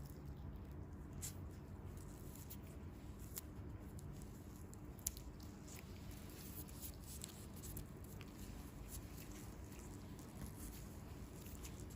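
Faint close-up handling sounds of hands working on bare feet: scattered small clicks, taps and soft squishes over a low steady hum, with one sharper tick about five seconds in.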